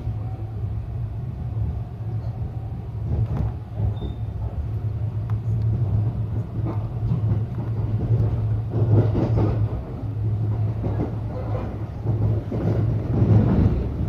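Local electric train running along the line, heard from inside the carriage: a steady low hum with scattered clicks and knocks from the wheels on the track, more frequent in the second half.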